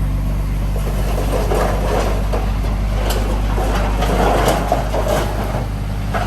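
Heavy diesel engine of earthmoving machinery running steadily with a low drone, with irregular clatter and sharp knocks over it.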